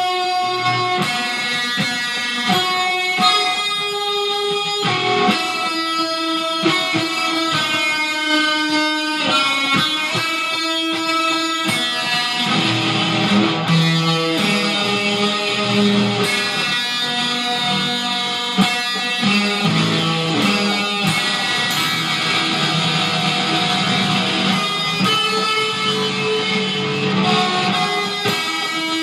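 Electric guitar played from tabs: runs of single picked notes, then fuller strummed chords from about twelve seconds in.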